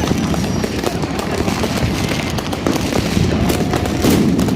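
Fireworks going off all around in a dense, continuous barrage of overlapping bangs and crackles.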